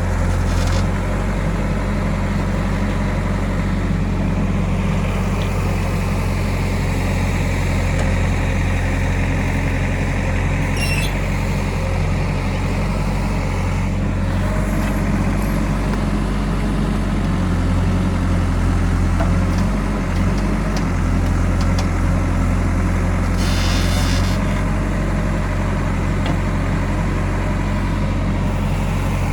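Diesel engine of a Kirloskar-engined JCB backhoe loader running steadily as it works, its pitch dipping and recovering for a few seconds midway. A short hiss comes about three-quarters of the way through.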